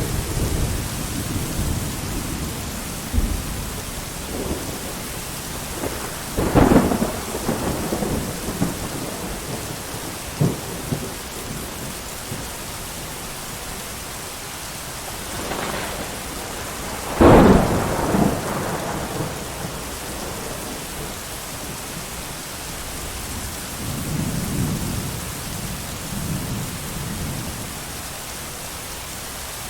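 Steady heavy rain with rolling thunder. Two loud claps come about a quarter of the way in and just past halfway, each trailing off over a second or two, and lower rumbles sound at the start and near the end.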